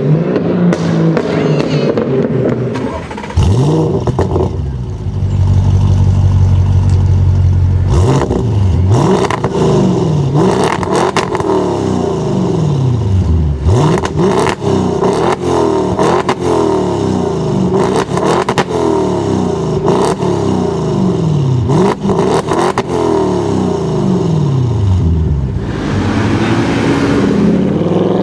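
A high-performance car engine revved hard again and again, its pitch climbing and dropping about once a second. There is a steady low drone for a few seconds early on, and sharp cracks between the revs.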